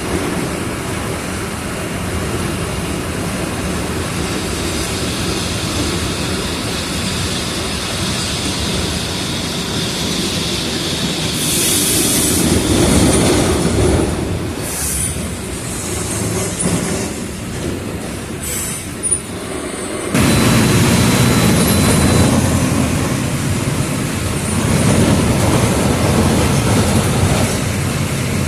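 Mercedes-Benz OF 1722M city bus's diesel engine running as the bus drives, with body rattle. There is a short hiss of air about twelve seconds in. At about twenty seconds the engine note suddenly gets louder and stays up as it pulls harder.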